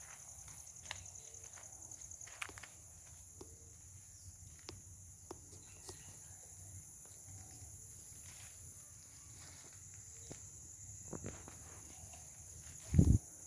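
Insects trilling steadily in a high-pitched, finely pulsing chorus, with scattered faint clicks and one loud low thump near the end.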